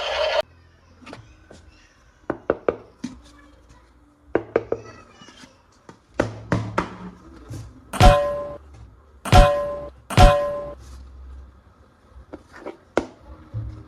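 Plastic toy guns and parts being handled: scattered clicks and knocks in small clusters, then three louder sharp snaps, each with a brief ringing tone, about two-thirds of the way through.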